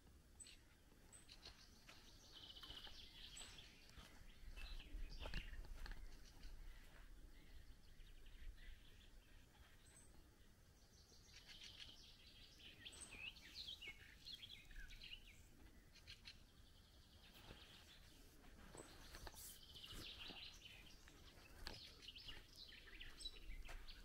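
Faint songbird song in three bouts of quick, high chirping phrases several seconds apart, over a low rumble.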